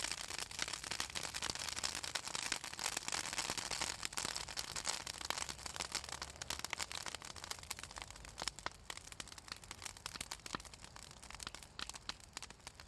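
Southern magnolia branches burning in an open fire, crackling and popping densely as the oil in the wood burns. The crackling thins out and gets quieter in the second half.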